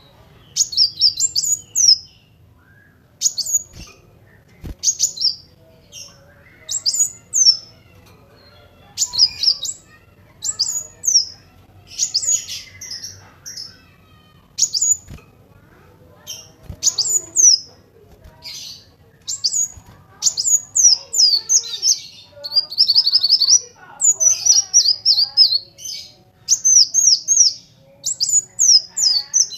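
Kolibri wulung sunbird singing: short, high, thin phrases of quick falling notes, repeated every second or two, running into a faster, denser stream of notes in the last third.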